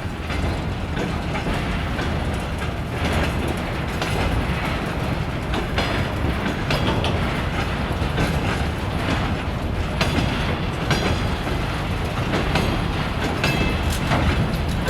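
Train rolling along the track, wheels clicking irregularly over rail joints over a steady rumble.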